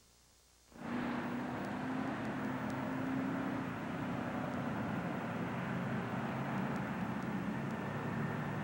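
Steady vehicle engine noise with a constant hiss, cutting in abruptly about a second in after near silence, with low humming engine tones under it.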